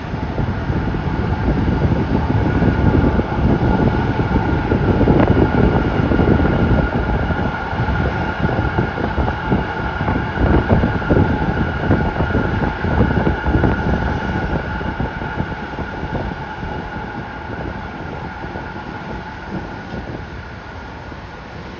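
Z3 class tram running along the track, heard from inside: a steady whine over rumbling and rattling wheels on the rails, with many small knocks. It grows louder over the first few seconds and eases off toward the end.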